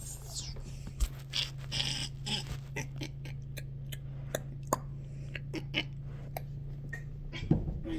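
Human vocal imitation of a European starling: a string of sharp mouth clicks and pops mixed with brief chirps and squeaky whistles, over a steady low hum, with a louder low thump near the end.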